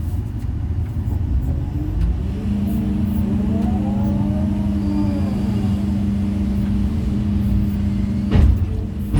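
Excavator's diesel engine and hydraulics running with a low rumble and a steady whine that sets in about two seconds in. The pitch rises and falls in the middle as the machine works, and a sharp knock comes near the end, like stone being set down.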